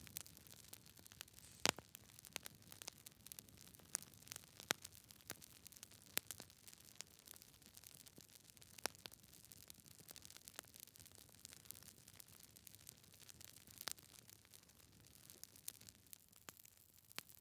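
Logs burning in a fireplace, crackling quietly: irregular sharp pops and snaps over a faint hiss, a few of them louder than the rest.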